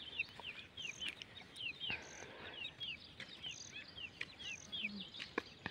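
Birds chirping: a steady run of short, high falling chirps, two or three a second, with a higher short note about once a second and a couple of faint clicks.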